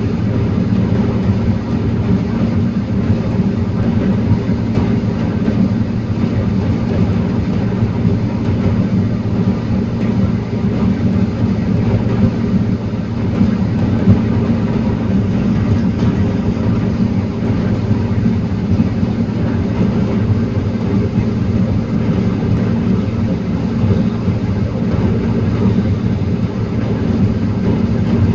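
Heavy diesel engine of a forestry machine running steadily at an even pitch.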